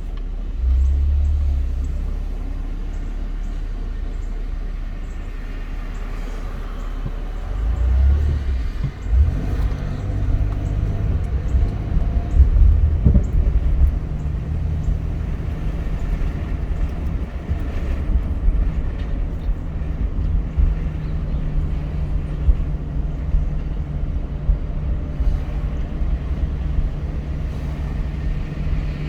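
Car driving: a continuous low rumble of engine and road noise. A rougher, bumpier stretch comes in the first half, then a steady low hum holds to the end.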